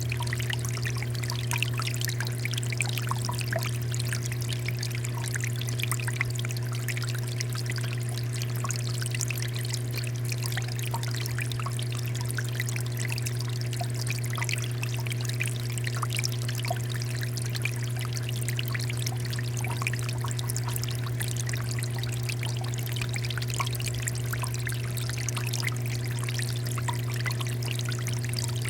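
Water fountain flowing: a steady stream of pouring water with fine splashing and trickling, over a constant low hum.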